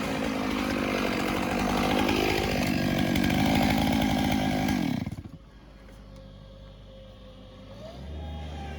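Chainsaw engine running at high revs, its pitch rising about two and a half seconds in, then cut back sharply about five seconds in and winding down. A low steady engine hum comes in near the end.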